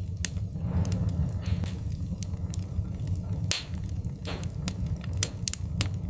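Wood-burning fire crackling: irregular sharp pops and snaps over a steady low rumble, with a few brief hisses.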